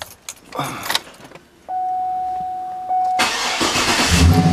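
A 2007 Cadillac Escalade EXT's V8 starting from inside the cab: the starter cranks for about a second, then the engine fires right up and settles into an even idle, a normal start on a freshly replaced crank sensor. A steady dashboard chime sounds before the crank and comes back once the engine is running, after a few key clicks near the start.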